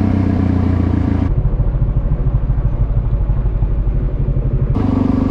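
Motorcycle engine running steadily; about a second in the sound switches abruptly to a lower, pulsing engine note, and near the end it switches back just as suddenly.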